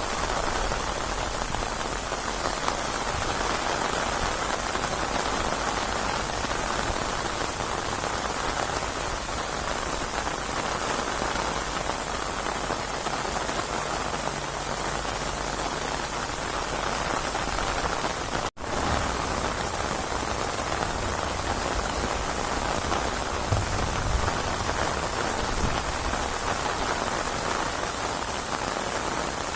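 Rainstorm: steady rain falling on a surface, a dense even hiss of drops. The sound cuts out for an instant about two-thirds of the way through, then resumes.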